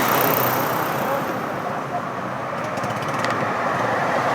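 Street traffic with motorcycle engines running, a steady mixed engine rumble.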